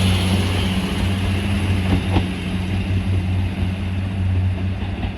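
Diesel multiple unit's engine running steadily, a deep hum with a hiss that fades over the first part. There is a faint click about two seconds in.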